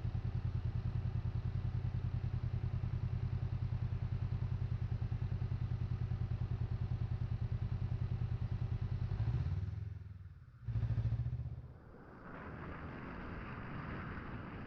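Honda CMX500 parallel-twin engine running with a steady low, even pulse, muffled by tape over the microphone. About ten seconds in it drops away, comes back briefly, then gives way to a quieter hiss.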